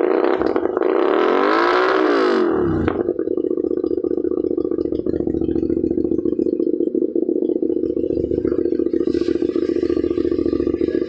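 Motorcycle engine with a loud aftermarket exhaust, revved once, rising and falling over the first few seconds, then idling with a steady rapid pulse.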